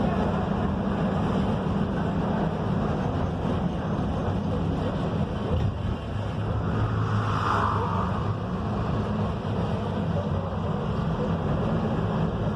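Mercedes-Benz OF-1721 city-intercity bus's diesel engine running steadily under way, with road and body noise; the engine note changes about seven seconds in.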